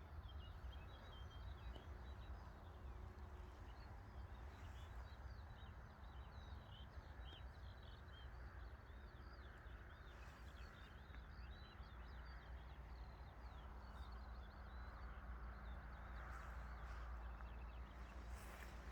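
Faint birdsong: many quick, high chirps, busiest in the first half, over a low steady rumble.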